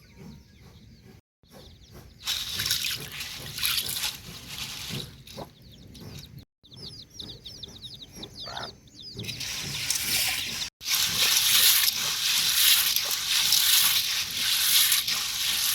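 Heavy rain hissing steadily, loudest in the second half, with a bird chirping rapidly over quieter rain in the middle. The sound cuts out abruptly a few times.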